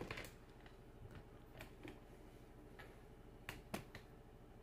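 Near silence broken by a few faint clicks of small metal alternator parts being handled, with two sharper clicks about three and a half seconds in.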